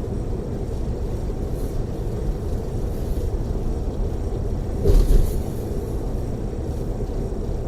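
Steady low rumble of a tour coach cruising on a freeway, heard from inside the cabin: engine and tyre noise. A brief thump about five seconds in.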